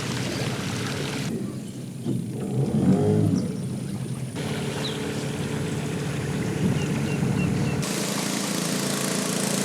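Motorboat engine running steadily under rushing noise. The sound changes abruptly three times, and a brief louder pitched sound comes about three seconds in.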